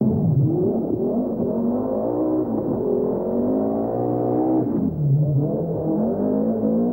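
Rally car engine under hard acceleration, its pitch climbing steadily, dropping sharply about two-thirds of the way through, then climbing again.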